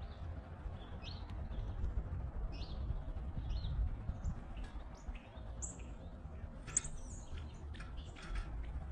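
Short, high bird chip notes and chirps, scattered and irregular, with a busier run of sharp chips near the end, over a steady low rumble.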